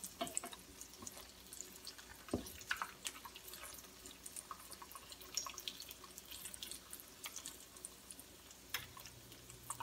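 Breaded mozzarella sticks frying in hot oil: a faint, irregular crackle of small pops, with a few sharper clicks of the spatula and fork against the pan as the sticks are turned.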